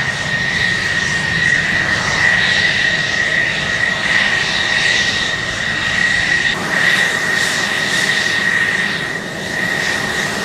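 Military aircraft engine running during a flying display: a steady high whine over a broad roar, dipping slightly near the end.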